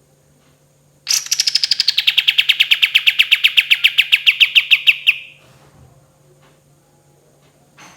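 Kapas tembak bulbul singing one long, rapid trill of evenly repeated notes, about eight a second for some four seconds, starting high and settling a little lower. A faint steady hum runs underneath.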